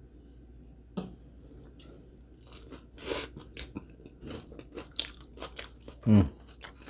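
A person chewing a mouthful of dressed salad, with many small wet crunches and clicks; the salad is a little soggy from too much dressing. A short hum of the voice comes near the end.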